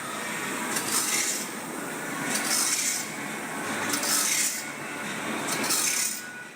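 A machine working in repeated strokes, each with a hissy, scraping sound about every second over a steady mechanical background. It fades out near the end.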